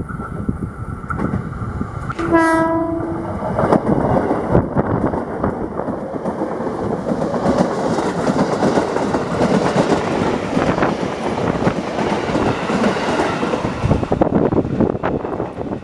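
KRL electric commuter train sounding one horn blast of about a second, then running past close by with a loud rumble and rapid clicking of wheels over the rails.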